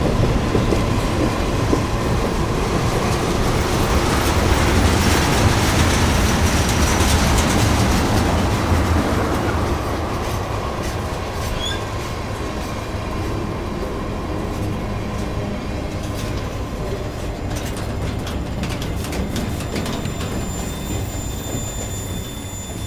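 Freight cars of a Union Pacific train rolling past close by: steady rumble and clatter of steel wheels on the rails, with a thin steady wheel squeal through the first half. Loudest about a third of the way in, easing a little after that.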